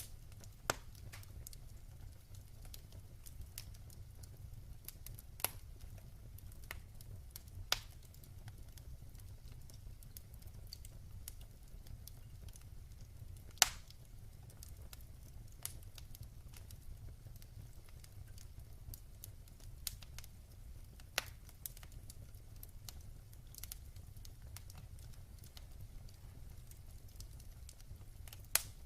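Wood fire crackling in a fireplace: scattered sharp pops and snaps at irregular intervals over a steady low rumble, with the loudest pop about halfway through.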